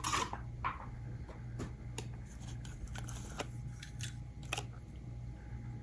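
Plastic blister packaging of a diecast toy van being opened by hand: scattered sharp clicks and crackles, over a steady low hum.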